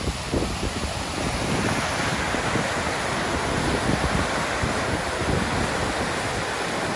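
Steady rushing roar of a cascading waterfall, growing a little fuller about a second and a half in, with gusty wind buffeting the microphone in low rumbles.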